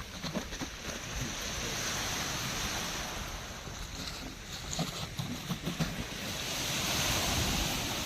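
Black Sea waves breaking and washing up the shore, swelling twice, about two seconds in and again near the end, with wind buffeting the microphone.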